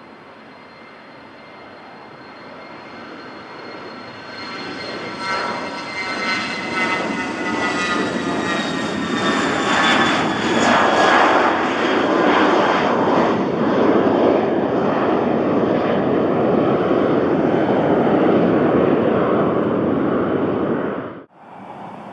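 Cessna 680A Citation Latitude business jet departing, its twin turbofans growing louder as it comes past, with a whine that falls in pitch as it goes by. The jet noise cuts off abruptly about a second before the end.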